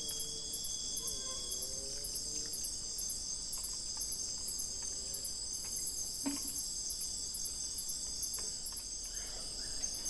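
A steady, high-pitched chorus of forest insects, with a repeated chirping pulse above it. A single short knock about six seconds in.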